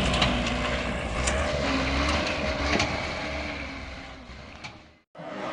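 A vehicle engine running with a low rumble and a few scattered clicks and knocks. It fades away near the end and cuts off abruptly.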